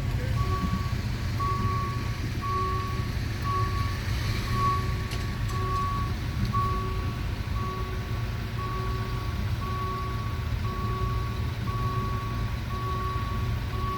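An electronic warning beeper sounding a short single-pitched beep about once a second, steadily, over a continuous low engine rumble.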